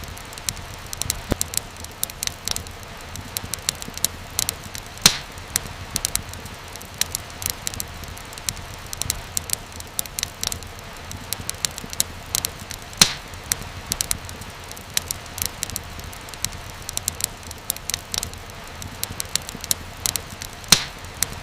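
Wood fire crackling in a fireplace: a steady low rumble and hiss under frequent sharp pops and snaps, the biggest pops about 5, 13 and 21 seconds in.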